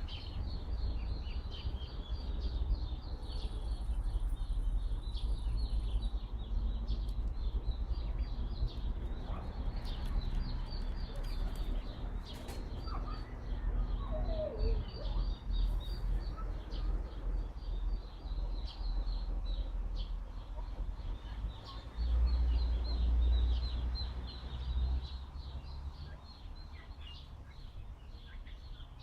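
Small birds chirping continuously, with wind rumbling on the microphone that strengthens in a gust about three-quarters of the way through.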